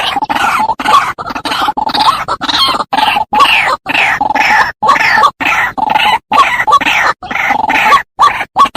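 White-breasted waterhen calling: rapid runs of harsh, croaking notes, some falling in pitch, broken by short gaps.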